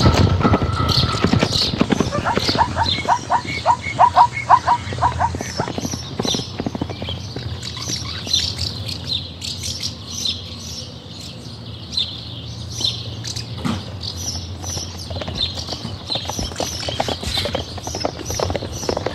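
Small birds chirping throughout, with a quick run of about eight evenly spaced calls a few seconds in.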